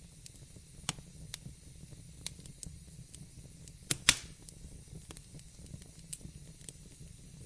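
Wood fire crackling in a fireplace: scattered small snaps over a low steady rumble, with a sharp double pop about four seconds in.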